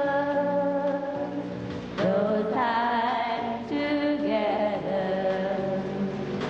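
Slow sung song: long held vocal notes with vibrato over a quiet accompaniment, with a new phrase starting about two seconds in and another a couple of seconds later.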